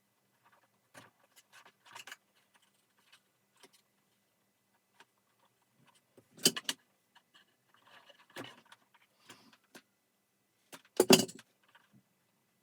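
Vacuum cleaner parts being handled during disassembly: scattered light clicks and rattles of plastic and metal, with two sharp clunks, one about halfway through and a louder one near the end.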